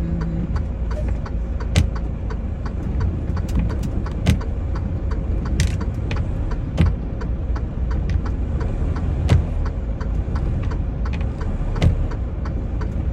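Semi-truck running with a steady low rumble. Scattered small ticks run throughout, and a louder knock comes about every two and a half seconds.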